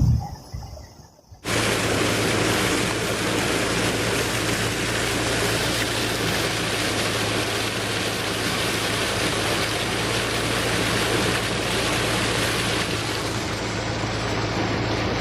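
Heavy downpour, a dense steady hiss of rain, with a steady low hum underneath; it starts abruptly about a second and a half in, after a brief thump.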